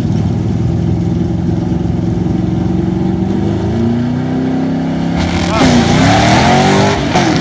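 Drag race cars' V8 engines at the strip: a steady engine note that begins rising about halfway through as the cars pull away, then grows louder and harsher, with quick drops and climbs in pitch as they shift gears near the end.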